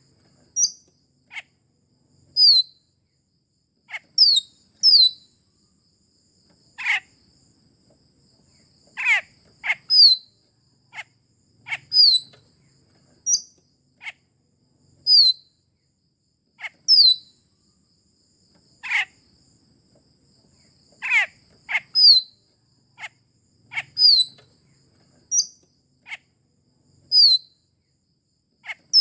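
Grosbeak starlings (raja perling Sulawesi) calling: a run of short, sharp, falling squeaky notes every second or so, some very high-pitched and some lower, over a steady high-pitched insect-like trill.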